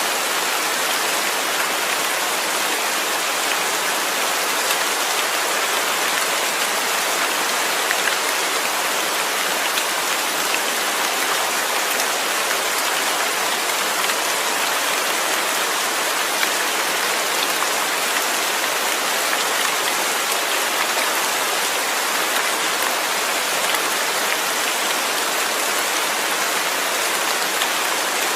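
Steady rain falling on a surface, an even hiss with scattered drop ticks, no change in intensity.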